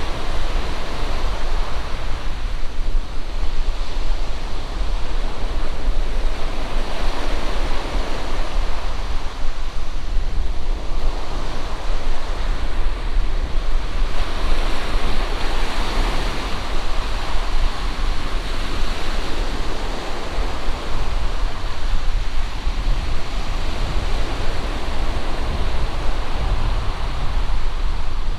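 Wind buffeting the microphone with a heavy low rumble, over the steady rushing wash of sea surf on the shore.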